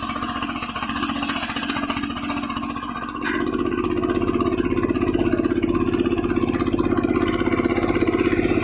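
A homemade circular sawmill driven by a two-stroke chainsaw engine, its blade hissing through a log. The cutting hiss stops about three seconds in, with a click, and the engine runs on steadily without load.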